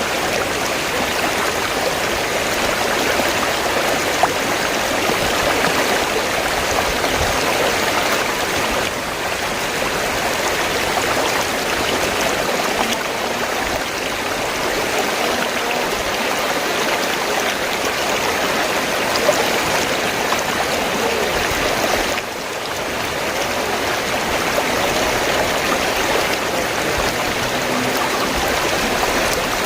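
River water flowing and rushing steadily over rocks, a continuous dense splashing with no breaks.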